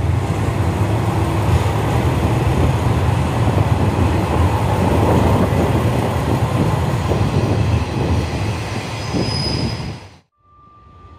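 Diesel train running close past the microphone: a heavy, steady low rumble with wheel and rail noise over it, cutting off suddenly near the end.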